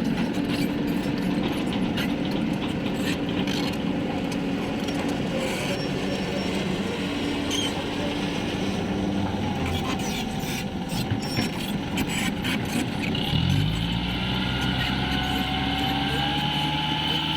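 Truck engine running steadily, then revving up about three-quarters of the way through and holding at the higher pitch. Scattered short knocks sound throughout.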